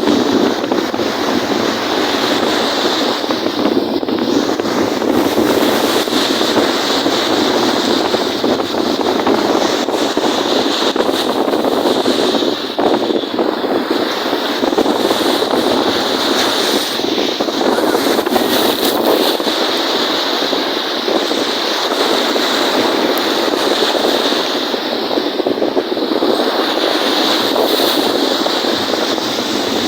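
Wind-driven waves on a lake, with strong wind rushing over the microphone in a steady, unbroken noise.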